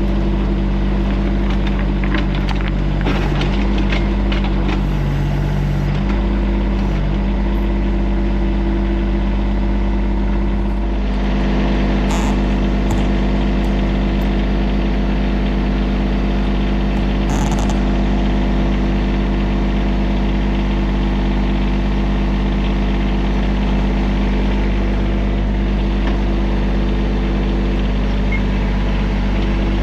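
TYM compact tractor-backhoe's diesel engine running steadily under work, with scattered short clanks and knocks a few seconds in and again around twelve and eighteen seconds. From about eleven seconds in the engine noise grows harsher and fuller.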